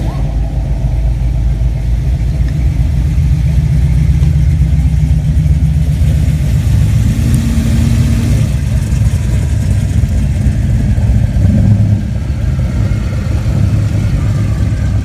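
A car engine running with a deep, steady rumble, growing louder a few seconds in and easing slightly near the end.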